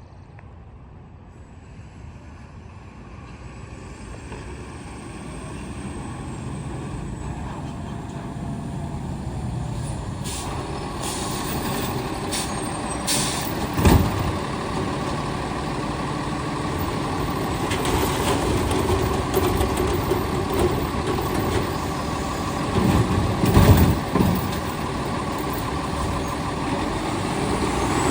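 Heil STARR System garbage truck running, its engine growing steadily louder as it comes closer, with short hissing sounds. There is one heavy knock about halfway through and a cluster of knocks near the end.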